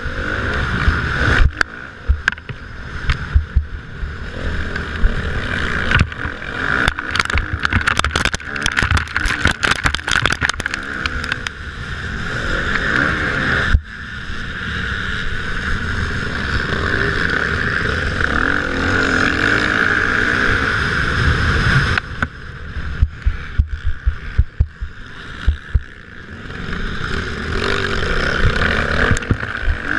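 Motocross motorcycle engines racing, the engine note swelling and dropping as the riders open and close the throttle, with rough crackling spikes in the first half and a sudden break about 14 seconds in.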